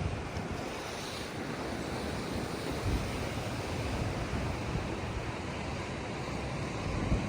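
Sea waves washing steadily, with wind buffeting the microphone in low gusts.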